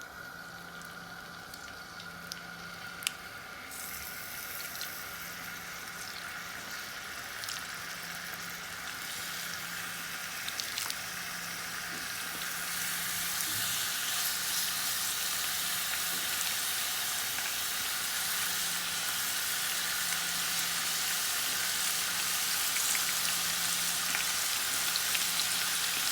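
Marinated chicken strips sizzling as they fry in hot olive oil in a frying pan on full heat. The sizzle builds and grows louder over the first half, then holds steady.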